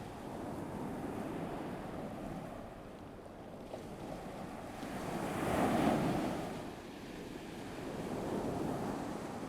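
Ocean waves washing onto a shore, a steady wash with one wave swelling up and breaking about six seconds in, then drawing back.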